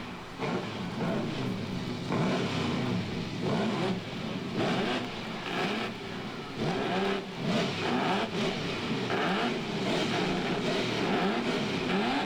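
Pre-war Mercedes-Benz Grand Prix racing car engines revving hard on a circuit, the pitch climbing and dropping again and again through the gears.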